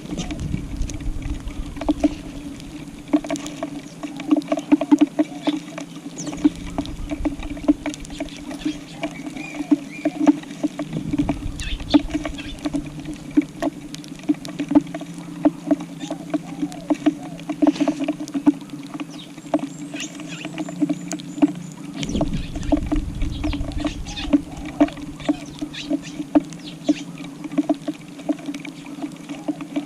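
Tree sparrows pecking grass seed off a tile floor: a continuous run of quick small taps and clicks of beaks on the tiles, with a low rumble now and then.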